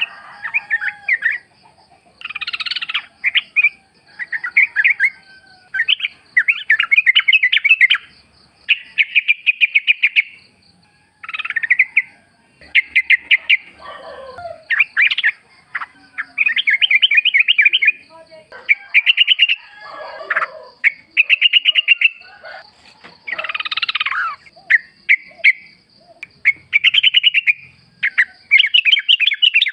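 Yellow-vented bulbuls singing: short bubbly phrases of rapid chattering notes, one after another every second or two. A faint steady high-pitched tone runs underneath.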